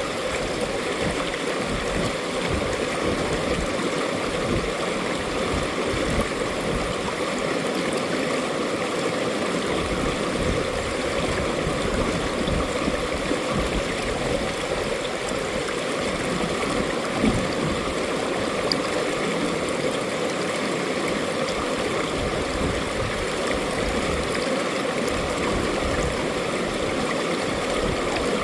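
Mountain valley stream running over rocks: a steady, even rush of water with some gurgling.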